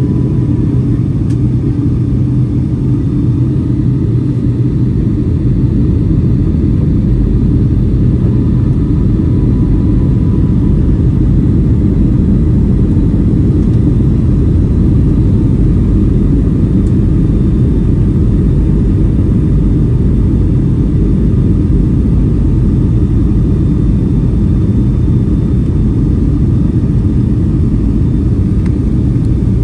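Boeing 757-300 airliner in flight, a steady low rumble of its twin jet engines and rushing air, with no change in level.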